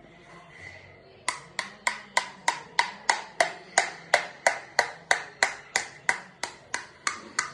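Knife tapping steadily against an egg to crack the shell, about three sharp taps a second, starting about a second in.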